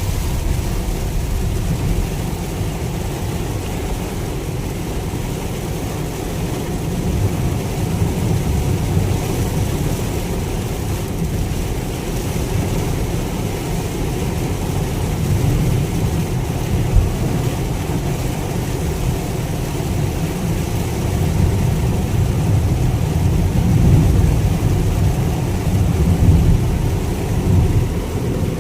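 Heavy rain heard from inside the cabin of a moving 2022 Mitsubishi Xpander CVT: a steady rush of rain on the body over a low road and engine rumble.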